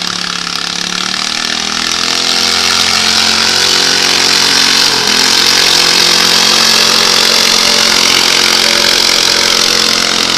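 Small pulling tractor's engine running hard under load during a tractor pull. It grows louder over the first two or three seconds, then holds steady.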